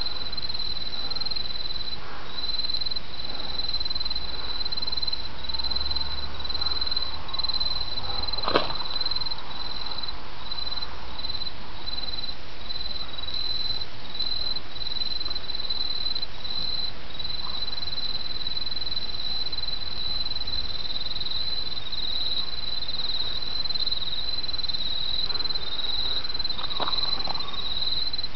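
Autumn insects trilling in a steady, high-pitched stream of song with brief breaks, over the even murmur of a babbling brook. A single sharp knock sounds about eight seconds in, and a few faint clicks come near the end.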